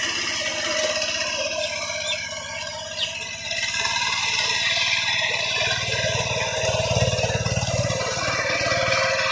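Tractor engine running steadily with an even firing pulse, its low rumble swelling louder about two-thirds of the way through.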